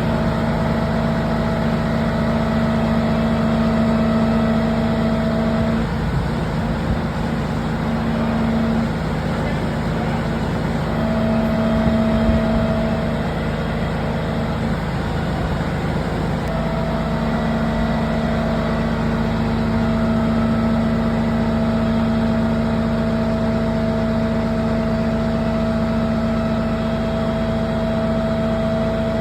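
Engine of a heavy vehicle running steadily with a constant drone over a low rumble; the drone fades for several seconds partway through, then comes back strongly.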